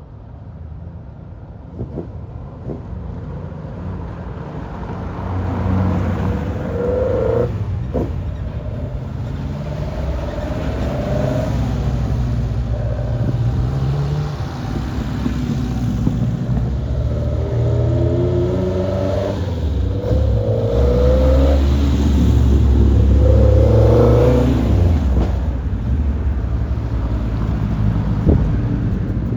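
Classic car engines revving and pulling away one after another, each rising in pitch as it accelerates. The sound gets louder toward the middle, with a heavy low engine rumble for several seconds before easing off.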